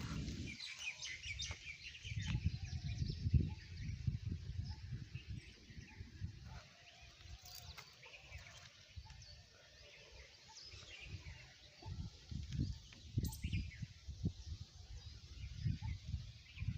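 Birds chirping and calling, over gusts of wind buffeting the microphone with an uneven low rumble that eases off mid-way and picks up again near the end.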